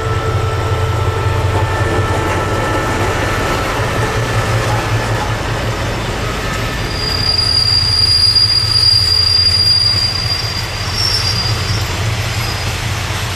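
Train running on the rails with a steady low rumble; about halfway through, a high-pitched steel wheel squeal rises and holds for about four seconds before fading.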